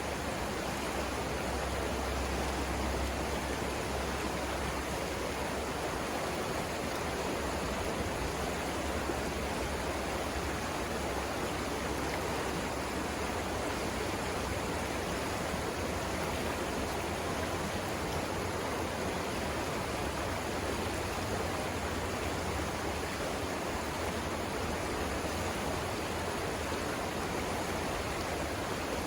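River rapids: water rushing steadily over rocks, an even, unbroken rush with a low rumble underneath.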